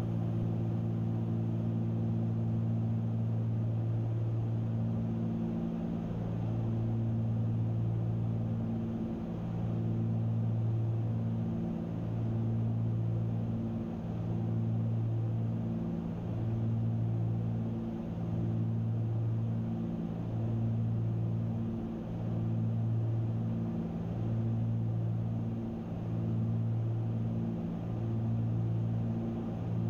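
Cabin drone of a Cessna 310Q's twin piston engines and propellers in cruise, a steady low hum that swells and fades about every two seconds: the beat of the two propellers turning at slightly different speeds.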